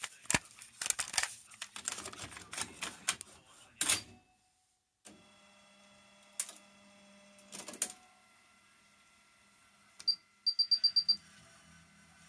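Pioneer KEH-M7400RDS car radio-cassette head unit clicking and clunking for a few seconds, then falling silent for a moment. A faint steady hum follows, with two more clicks and, about ten seconds in, a quick run of six high beeps.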